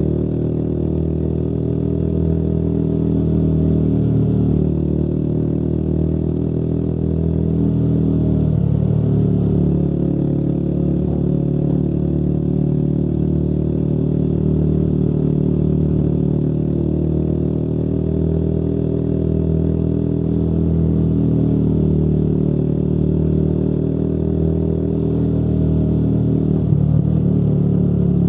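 Motorcycle engine running steadily while riding, its pitch drifting gently up and down, with a brief dip about eight seconds in and another near the end.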